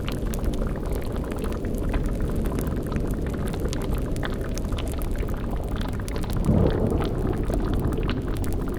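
Spooky ambience mix: a cauldron bubbling over a steady low rumble, with many faint crackles throughout and a brief low swell about six and a half seconds in.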